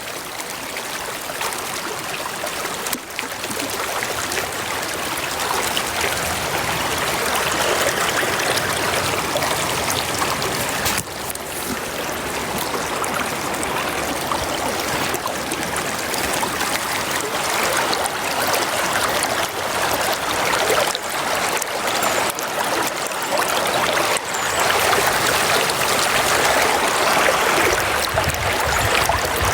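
River water running steadily, a continuous rushing flow.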